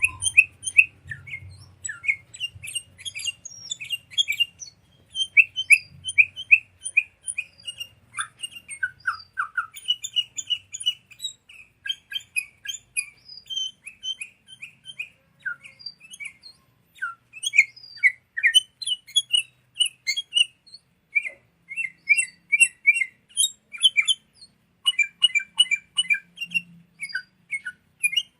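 Sooty-headed bulbuls (kutilang) chattering: a dense, continuous run of quick, short chirps and call notes, several birds overlapping.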